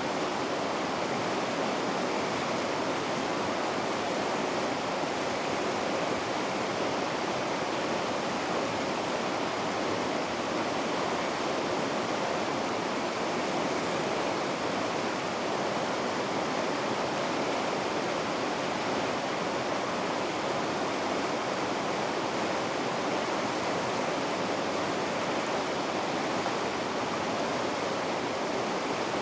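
Water rushing through river rapids, a steady, even rush with no break or change.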